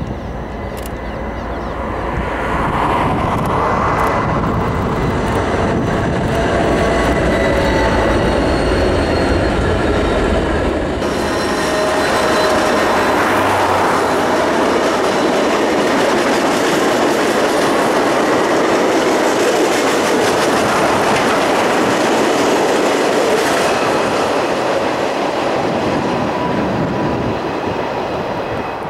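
A diesel-hauled train passing close by, led by a Union Pacific DD40X Centennial locomotive: deep locomotive engine rumble for about the first eleven seconds. Then the low rumble drops away and a steady rush of wheels on rail takes over as the trailing units and cars go by, with thin wheel squeal on the curve.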